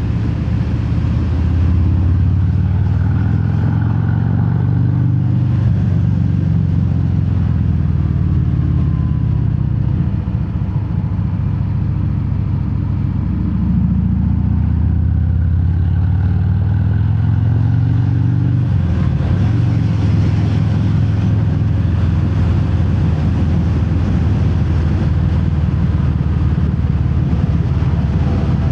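2019 Harley-Davidson Fat Bob V-twin running through Vance & Hines Hi-Output slip-on mufflers with the quiet inserts removed, heard from inside the rider's helmet while riding. The engine note rises and falls several times under throttle, then runs steadier in the last third.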